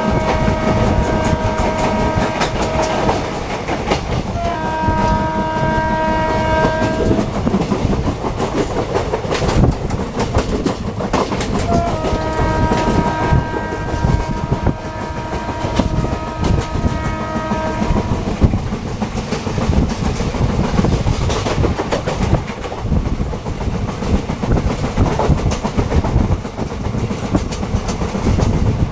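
Indian Railways WAP-7 electric locomotive sounding its horn three times, the first blast ending about three seconds in, a second of about three seconds, and a long one of about six seconds starting around twelve seconds in. Under it, the steady rumble and clickety-clack of the passenger train's wheels over rail joints.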